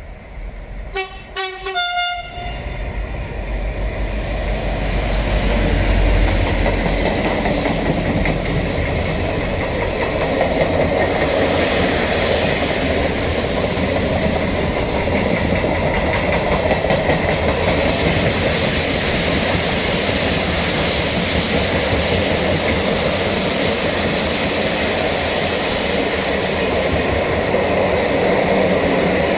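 Class 335 diesel freight locomotive sounding a few short horn blasts in the first couple of seconds, then a container freight train passing with a long steady rumble and wheel noise on the rails.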